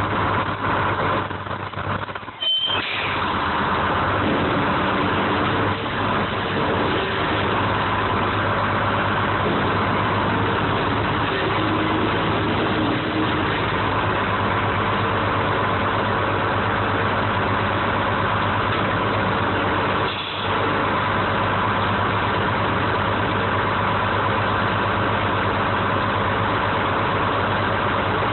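Engine of a 1970 American 7510 crane running steadily, heard from inside the operator's cab.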